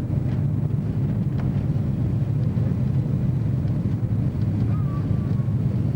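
Steady low rumble of airliner cabin noise, jet engines and rushing airflow heard from inside the cabin, as the plane descends on approach to land.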